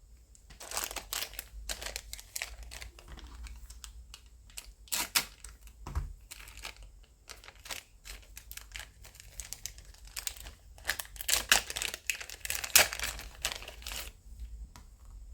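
Plastic parts bags and packaging crinkling and rustling as they are handled, with scattered sharp clicks and taps.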